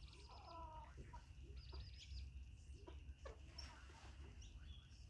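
Faint chickens clucking, with short high chirps among the calls over a steady low rumble.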